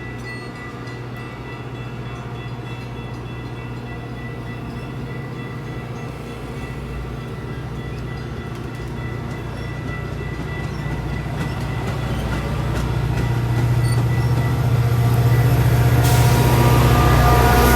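A diesel-hauled train approaching: a steady low engine drone grows steadily louder, and wheel-and-rail rumble swells sharply about sixteen seconds in as it draws close.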